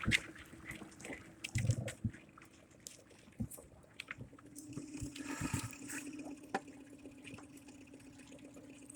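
Water sloshing with irregular knocks and clicks as a small boat is forced through thin ice. A louder knocking comes just before two seconds in, and a steady low hum comes in at about four and a half seconds.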